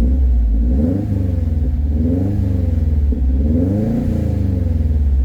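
Subaru Impreza STI's EJ257 2.5-litre turbocharged flat-four with a cat-back exhaust, revved up from idle and let fall back twice.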